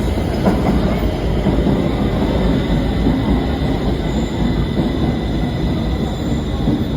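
Stockholm metro train running alongside the platform: a loud, steady low rumble with a faint high whine over it.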